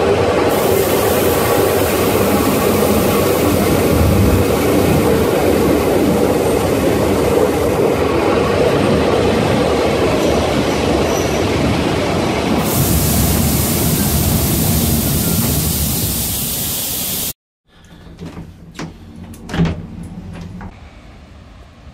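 Historic train of old carriages hauled by an E.626 electric locomotive, rolling steadily along the rails, heard loud through an open carriage window. The noise cuts off suddenly near the end, and then there are a few clicks and knocks of a carriage door latch worked by hand.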